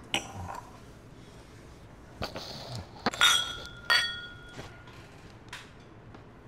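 Whisky glasses clinked together in a toast: two bright, ringing clinks a little over half a second apart, about three seconds in, with lighter taps of glass around them.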